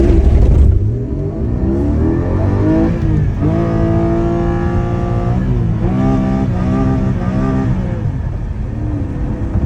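Car engine revving and accelerating: the pitch climbs, holds high and steady for about two seconds, then drops and rises again in several shorter pulls.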